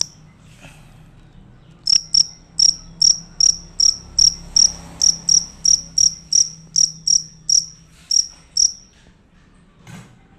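Field cricket (jangkrik) calling: a loud, regular series of high chirps, about three a second, starting about two seconds in and stopping shortly before the end.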